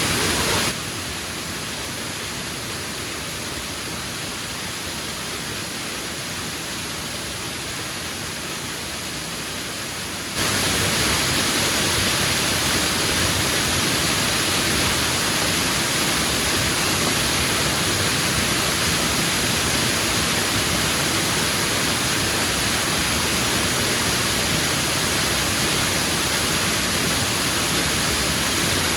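Steady rushing of a nearby waterfall, a continuous wash of falling water. It drops a little in level about a second in and comes back up about ten seconds in.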